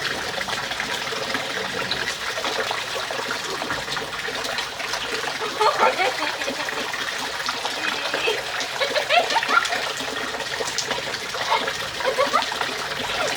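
Rainwater pouring and splashing steadily, with a child's high voice calling out briefly a few times from about six seconds in.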